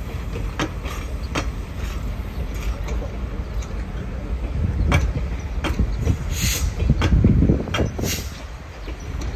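Reading & Northern passenger train running on the rails: a steady low rumble with scattered sharp knocks and clunks, swelling louder about seven seconds in, with two brief hisses.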